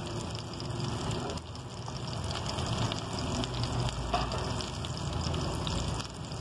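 Chapli kababs shallow-frying in ghee in a pan, sizzling steadily.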